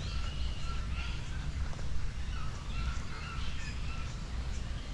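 Many birds calling at once: short, overlapping chirps and calls, some high and some lower, over a low rumble.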